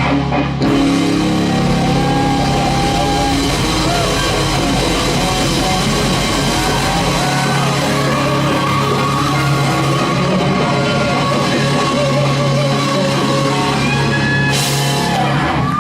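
Live rock band playing loud, with electric guitar and drum kit. A cymbal-like burst of hiss comes near the end, then the playing stops.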